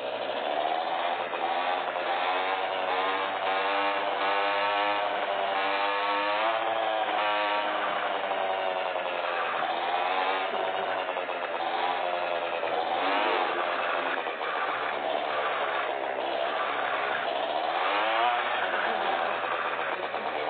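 Motorcycle engine running and revving, its pitch rising and falling again and again; it starts suddenly.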